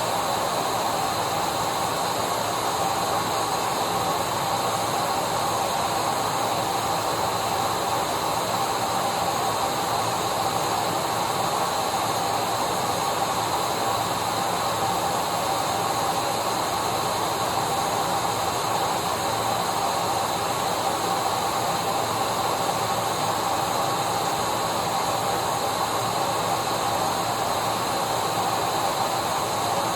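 Vacuum cleaner running steadily: an even rushing hiss with a steady motor whine, with no change in pitch or level.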